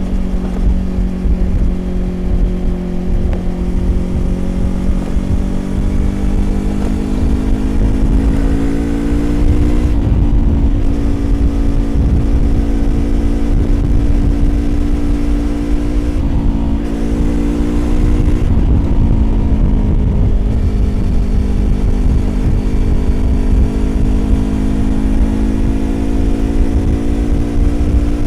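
Yamaha YZF-R25 parallel-twin engine through a Prunus aftermarket exhaust, cruising under load with wind and road rumble. Its pitch climbs over the first ten seconds, dips briefly a few times, then holds and creeps up again.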